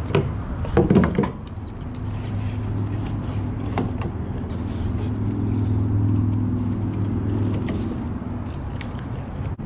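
A motor engine runs with a steady low hum that swells towards the middle and eases off near the end, like a vehicle passing. A few sharp knocks come early on.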